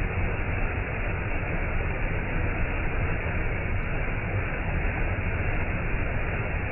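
Waterfall pouring steadily: a continuous rush of falling water with a deep, even rumble underneath.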